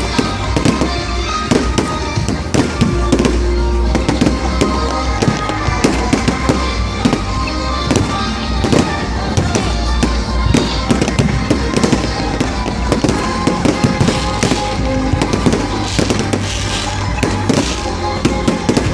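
Dense, continuous crackling and popping, many sharp cracks a second, over music with a deep steady bass.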